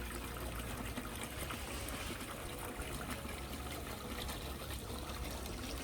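Water trickling and running steadily, an even rushing hiss with no breaks.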